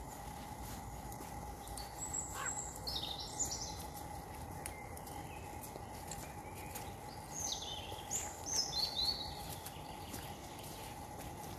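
A songbird singing two short phrases of high notes that fall in pitch, about two seconds in and again about seven seconds in, over a steady faint background.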